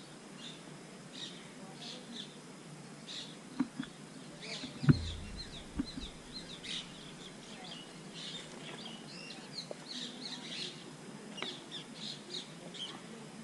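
Small birds chirping, many short overlapping calls throughout, with a single sharp thump about five seconds in.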